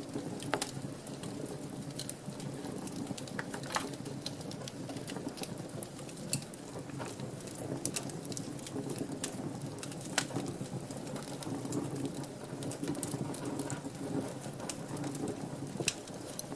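Wood fire burning in a fireplace: a steady low rush of flames with frequent sharp crackles and pops, one louder pop about ten seconds in.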